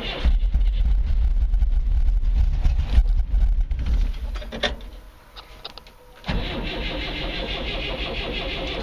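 1965 Datsun PL320 pickup's four-cylinder engine catching on a cold start and running roughly and unevenly for about four seconds before it dies. About six seconds in, the starter cranks it over again steadily: it will not yet keep running from cold.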